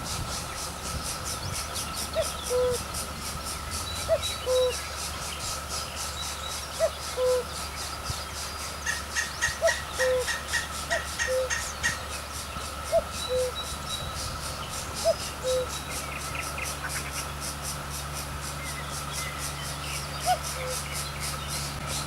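A bird repeating a short, low, hoot-like note with a quick higher pip just before it, every second or two. Over a steady high tone and a faint fine ticking, a brief run of higher chirps comes about nine to twelve seconds in.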